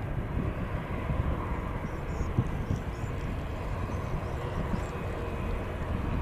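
Steady low rumble of jet airliner engines heard outdoors, with no sudden events.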